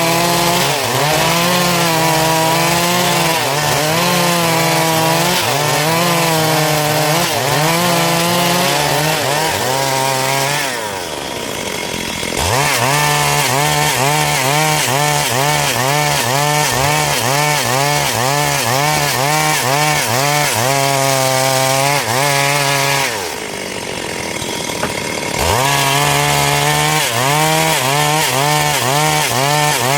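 Stihl MS 382 two-stroke chainsaw cutting through a dry log, its engine pitch wavering as the chain works under load. Twice, about 11 and 23 seconds in, the revs drop away briefly and then climb back as the saw bites again.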